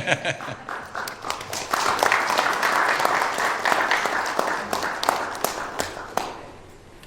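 Audience applauding, swelling about two seconds in and dying away near the end.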